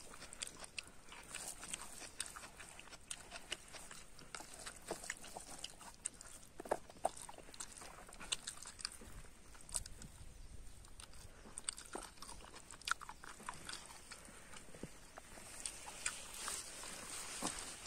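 Close-up eating sounds of a person eating rice and curry by hand: irregular wet chewing, lip smacks and clicks.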